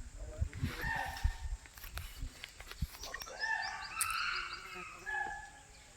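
Short wild animal calls, each held at a steady pitch, one about a second in and a run of several between three and five seconds in, with a few low knocks in the first two seconds.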